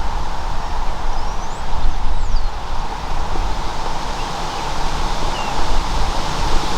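Wind rumbling and buffeting on the microphone outdoors, with a couple of faint high bird chirps between one and two and a half seconds in.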